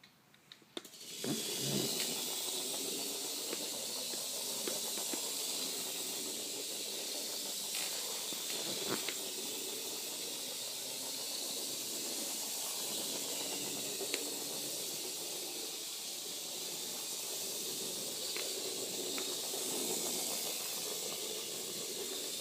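Tiny electric drive motor and gears of a 1:64 radio-controlled Tronico Claas Axion 850 model tractor running forward, a steady high whirring hiss that starts about a second in, with a few faint ticks.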